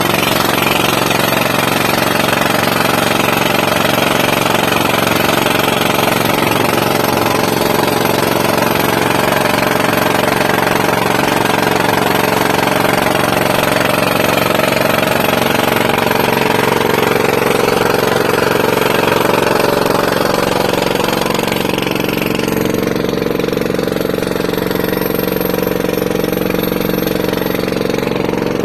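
Tractor-mounted DTH (down-the-hole hammer) drill rig running: rapid pneumatic hammering over the steady drone of the engine. About 22 seconds in, the high-pitched rattle and hiss ease off while the engine carries on.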